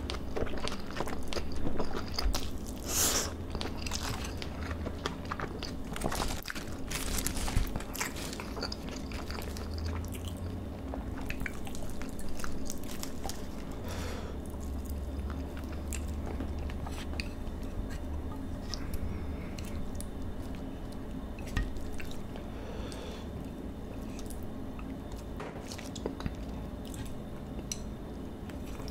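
Close-miked chewing and mouth sounds of a person eating marinated beef bulgogi with rice, loudest in the first several seconds. Later come quieter small clicks and rustles as lettuce wraps are filled with the meat.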